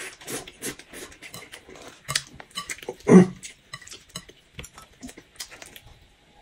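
Close-miked chewing of crunchy fried food: a steady run of small crunches and wet mouth clicks, with a louder short mouth sound about three seconds in and light clinks of chopsticks on dishes.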